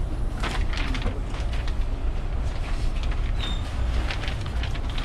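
Steady low rumble inside a waiting passenger train carriage, with scattered clicks and knocks and a brief high beep about three and a half seconds in.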